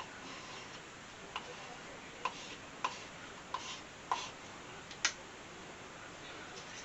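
Six light, sharp clicks or taps at uneven spacing over a few seconds, the last one the loudest, against faint room noise.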